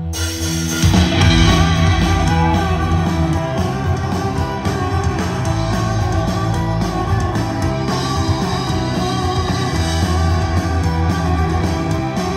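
Live folk-punk band playing an instrumental intro, led by guitars over bass and drums, kicking in at full volume within the first second.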